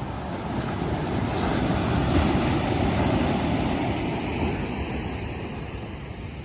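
Ocean surf on a beach: a wave builds, breaks about two seconds in, and washes out, fading gradually toward the end.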